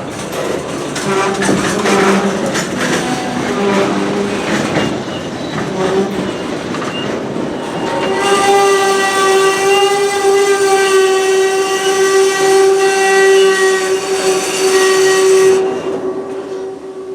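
Freight train rolling past, rail cars clattering over the track, with short intermittent tones. About halfway in, a loud, steady pitched tone takes over for about seven seconds and then drops away, leaving only its low note.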